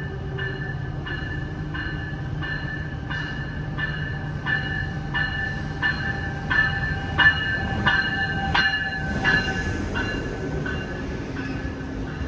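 Passenger train arriving behind a Siemens Charger SC44 diesel locomotive, its bell ringing about twice a second over the low, steady running of the engine. The bell grows louder as the locomotive draws past, loudest a little past the middle.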